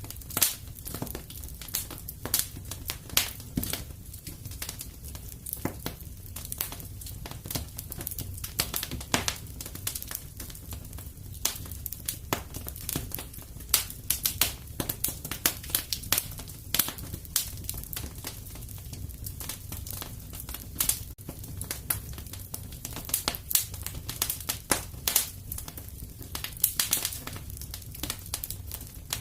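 Fire in a fireplace crackling steadily: irregular sharp pops and snaps, several a second, over a low rumble of the flames.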